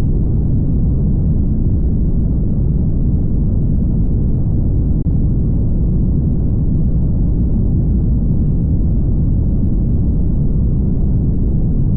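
Steady low rumble of road and wind noise from a car driving, with no change in level.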